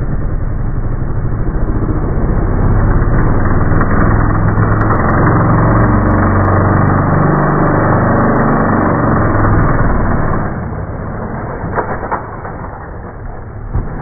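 Trials motorcycle engine running steadily at raised revs, then easing back about ten seconds in. A few sharp knocks near the end, as the tyres strike rock when the bike hops up the boulder.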